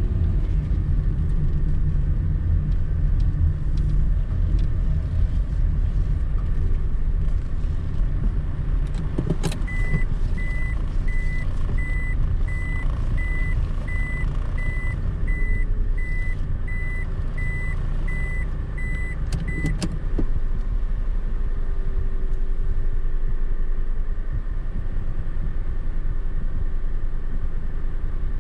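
A car's engine and road rumble heard from inside, slowing as it parks. From about a third of the way in, a steady series of short high beeps, a little more than one a second, runs for about ten seconds between two clicks: the in-car warning beeper of a car in reverse gear.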